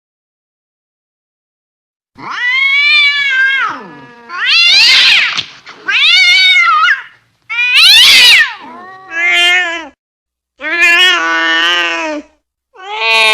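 Domestic cat yowling in anger: about seven long, wavering caterwauls one after another, beginning about two seconds in, with short gaps between them.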